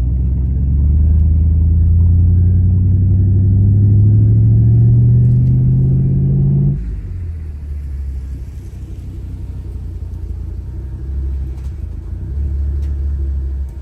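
Truck engine pulling under acceleration, its note rising steadily for about six seconds, then dropping suddenly to a lower, steady rumble, as at a gear change or lifting off the throttle.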